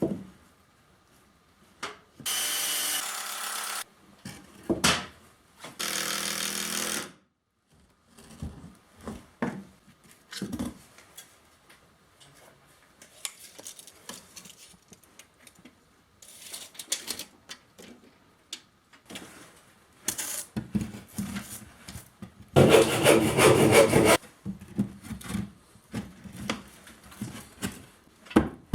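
Woodworking sounds while building a wooden ceiling: short bouts of sawing or rubbing on wood, three louder ones early, a few seconds in and near the end, among scattered knocks and clatters of boards and tools.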